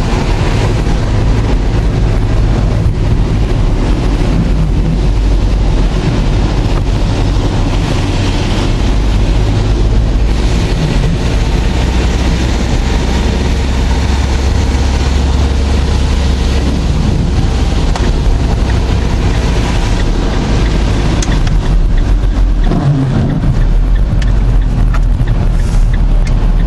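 Tropical storm wind blowing and buffeting the microphone: a loud, continuous low rumble with a rushing hiss above it.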